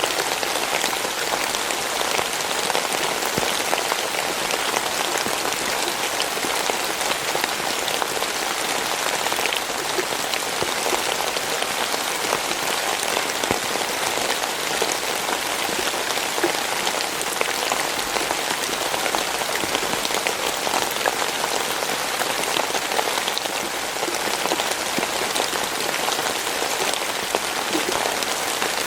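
Steady rain falling and pattering on a surface, a dense even hiss with many fine drop impacts.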